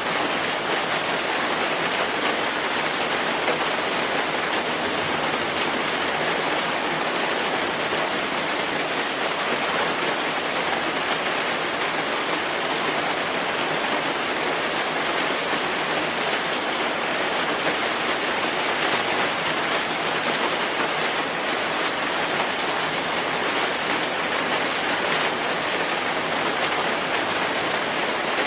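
Steady rainfall: an even hiss of rain falling on a surface, with faint individual drops ticking through it.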